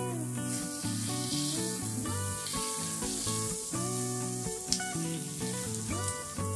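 Diced sausage, onion and colonial cheese sizzling as they fry in a pan, stirred with a spatula, with one sharp tap about two-thirds through. Background music with held notes plays over it and is the louder of the two.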